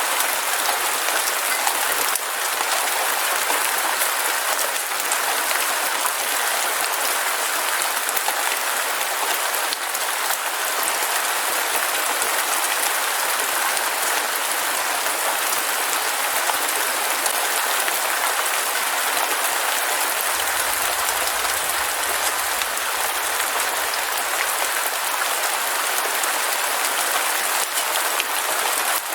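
Heavy rain falling steadily: a dense, even hiss with scattered drops tapping through it.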